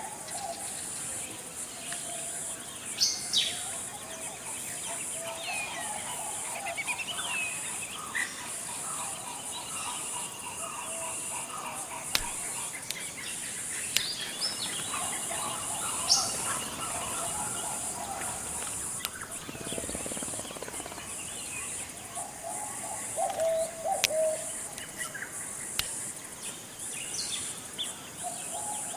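Tropical forest ambience: several birds calling and chirping in short, scattered phrases over a steady high-pitched insect drone.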